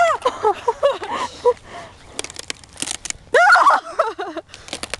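Girls' high squealing voices, with a few sharp crunching cracks about halfway through as a foot stomps into a puddle.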